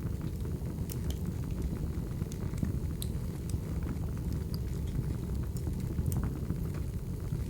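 Wood fire burning: a steady low rumble of flames with sharp crackles and pops of firewood every so often.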